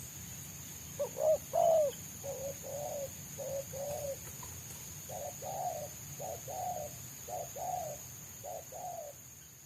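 Spotted doves cooing: a loud three-note coo about a second in, then a run of quieter two-note coos, about one pair a second, with a steady high-pitched tone behind.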